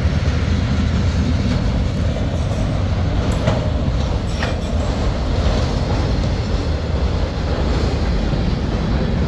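CSX freight train passing close by at speed: a loud, steady rumble and rush of wheels on rail, with two sharp clicks in the middle.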